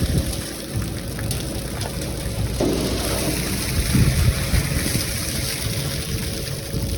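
Water splashing and running from washing out a ready-mix concrete truck's chute, over the steady rumble of the truck's diesel engine, with louder splashes a few times.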